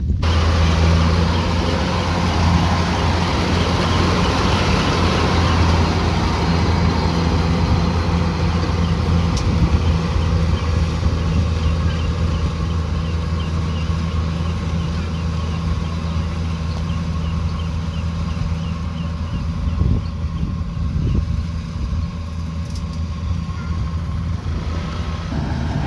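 Kubota DC105X combine harvester running steadily: a deep, even engine tone beneath a broad machinery noise.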